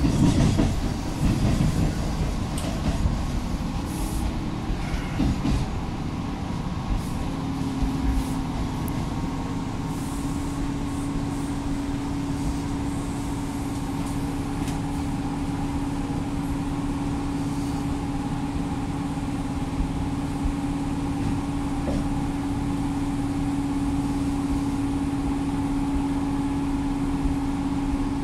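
Tobu Railway Koizumi Line electric train running along the track, heard from inside the driver's cab: steady running noise, joined about seven seconds in by a steady low hum, as it pulls into the terminus platform.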